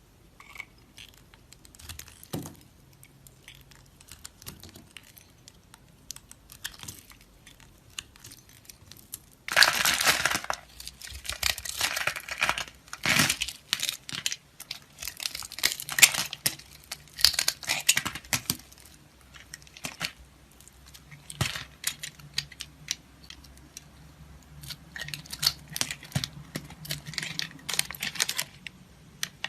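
Dry soap being cut, with crunchy crackling and crumbling. A few light clicks and taps at first, then dense crunching starts suddenly about a third of the way in and goes on in bursts.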